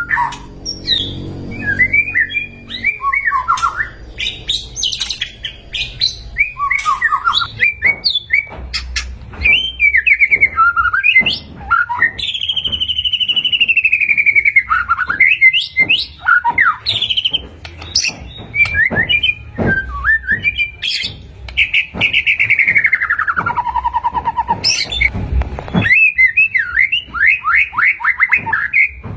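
White-rumped shama (murai batu) singing a varied song of clear whistles, quick chirps and trills, with a long falling whistle about halfway through and another near the end.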